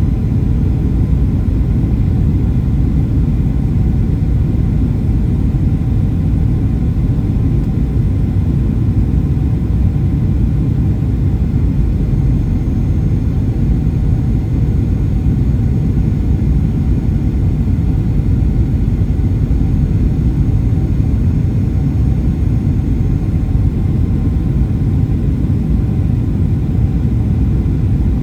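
Steady low rumble inside the cabin of a Boeing 737-800 airliner, from its running engines, with a few faint steady whines above it.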